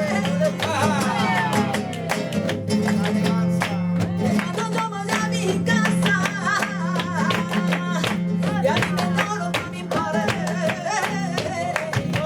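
Flamenco tangos played live: a singer's wavering, ornamented vocal line over flamenco guitar, with many sharp percussive strikes cutting through.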